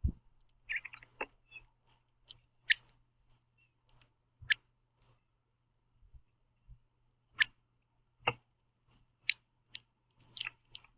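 Irregular sharp ticks and clicks from a male northern cardinal feeding on sunflower seeds in a platform feeder tray, with a couple of duller knocks, over a faint steady hum.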